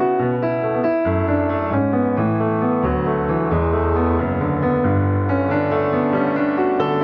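Background piano music: a steady run of notes over a moving bass line.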